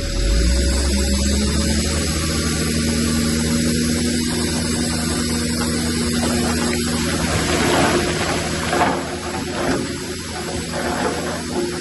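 Bulldozer diesel engine revving up, its pitch rising over the first couple of seconds, then running steadily under load. Near the end a rougher rushing noise takes over.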